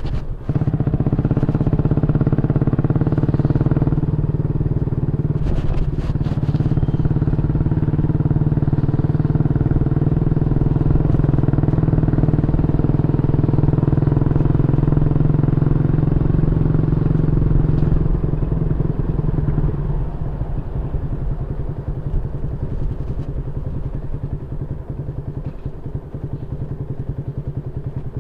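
Yamaha Y15ZR's 150cc single-cylinder engine running through a YYPANG SD3 aftermarket exhaust with a steady note. It eases down to a quieter level about two-thirds of the way through.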